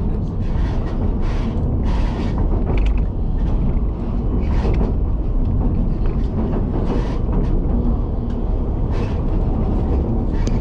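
White Pass railway passenger car rolling along the track: a steady low rumble with repeated short creaks and squeals from the car and wheels.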